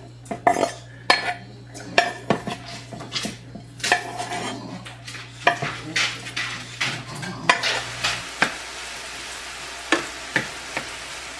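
A utensil stirring and clinking against a cooking pan, with many sharp knocks and scrapes, while food sizzles. In the second half the clinking thins to a few knocks and a steady frying sizzle is left.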